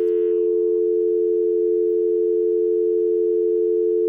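Telephone dial tone: a steady, unbroken two-note hum.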